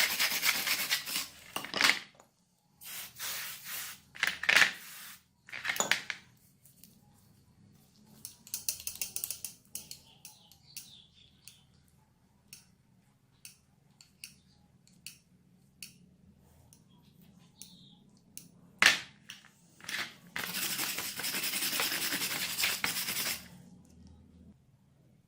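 Hand work on a rusty pair of steel pliers: several stretches of scrubbing or rubbing, separated by scattered metal clicks and clinks as the tool is handled. One louder click comes in the last third.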